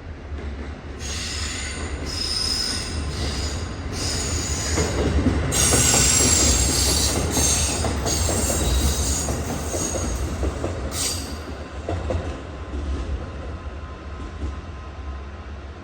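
A train moving past at low speed with its wheels squealing on the rails over a low running rumble; it grows louder to about six seconds in, and the squeal dies away after about eleven seconds.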